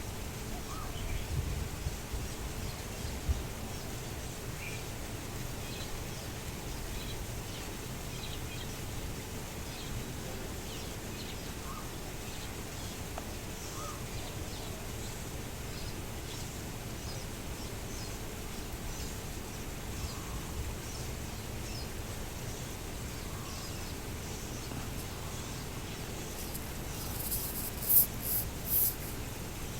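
Outdoor background hiss with scattered faint, short bird chirps, and near the end a quick cluster of three or four sharp, high hissing bursts.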